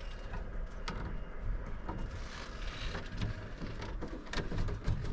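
A truck cab's sunroof or its blind worked by hand: scattered plastic clicks and knocks over a low, steady rumble, with the sunroof not opening as it should.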